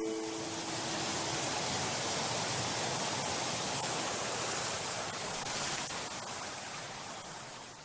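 Rushing water of a waterfall, a steady even rush that fades out near the end.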